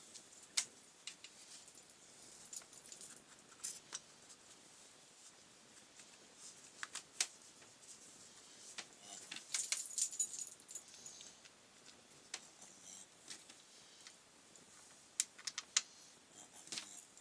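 Scattered light clicks and small metallic rattles of parts and tools being handled as a recoil pull-start assembly is refitted to a petrol brush cutter, with a busy run of clicks around the middle and another near the end.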